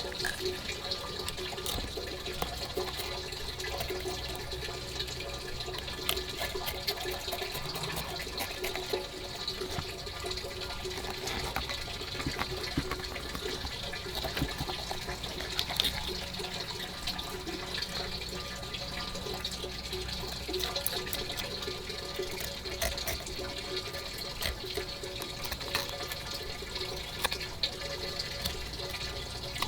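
Steady running water that does not let up, with scattered small clicks.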